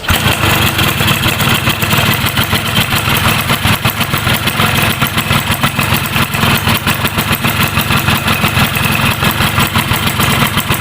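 Rebuilt Yamaha F1ZR two-stroke engine running steadily at idle, firing in a rapid, even pulse, after its rebuild from a seizure caused by a worn connecting rod.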